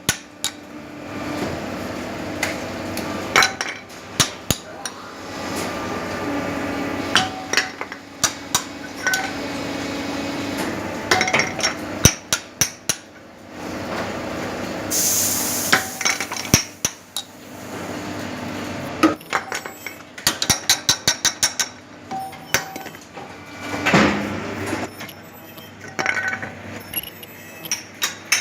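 Metal knocking and clinking from hand tools on steel press parts: scattered sharp knocks, with a quick run of about eight taps a second about twenty seconds in. Under them runs a steady machine hum, and a short hiss of air comes about halfway through.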